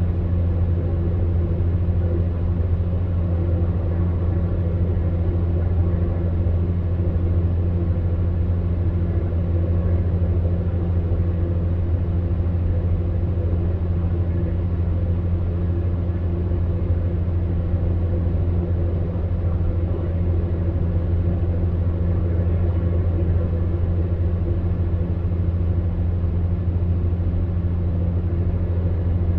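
Electric fan heater running steadily: a monotonous low hum from its fan motor under an even rush of air, unchanging throughout.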